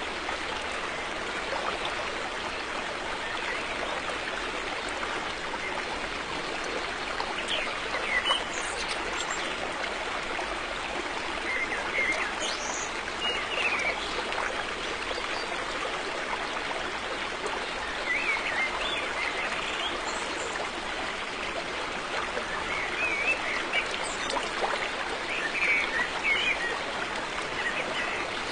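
River water flowing and trickling over rocks, a steady rushing hiss, with a few brief high chirps scattered through it.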